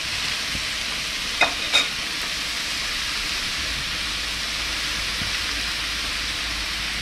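Shrimp sizzling and frying in oil in a frying pan over high heat while being stirred, a steady hiss. Two short knocks come about one and a half seconds in.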